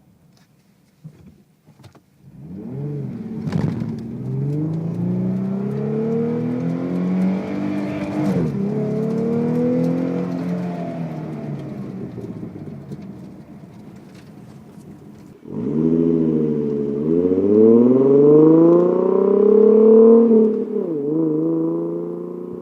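2011 Ford Mustang's 3.7-litre V6 through a Borla ATAK exhaust, accelerating hard from about two seconds in, with a gear change in the middle of the pull, then fading away. A second hard acceleration starts suddenly past the halfway point and climbs in pitch to another gear change near the end.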